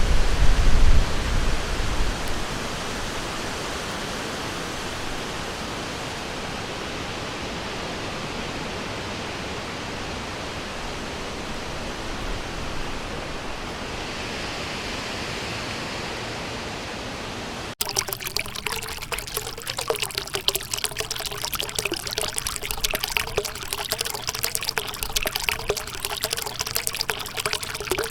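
Flowing river water: a steady, even rush, with a low rumble over the first couple of seconds. About 18 seconds in, it cuts suddenly to a closer, choppier trickling and splashing of water over stones.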